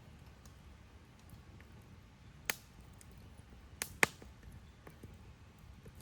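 Wood fire crackling: scattered faint ticks and three sharp pops, one about two and a half seconds in and a close pair near four seconds, the last the loudest.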